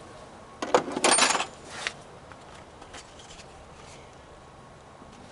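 A brief clatter of hard knocks and rattling, starting a little after half a second in and lasting about a second, with a lone click shortly after.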